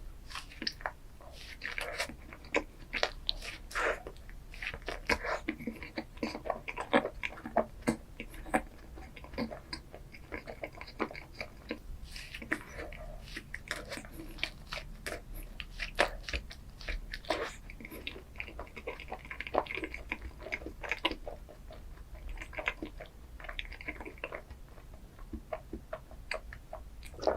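Close-miked eating of chocolate ice cream desserts: crunchy bites and chewing, a dense run of irregular sharp crackles throughout.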